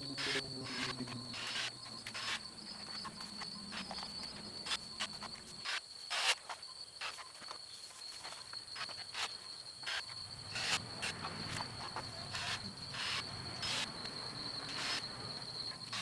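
A steady, high-pitched insect trill, with scattered clicks and knocks throughout.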